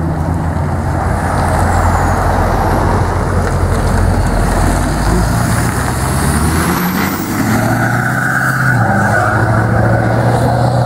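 Motor vehicle engines running close by on a street: a low engine hum that shifts in pitch a few times after the middle, over a steady rushing traffic noise.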